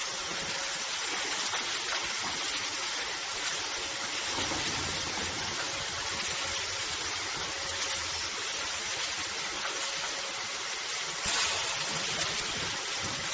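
Bottle washing machine running, with a steady hiss of rinse water spraying and rushing and a faint steady hum underneath.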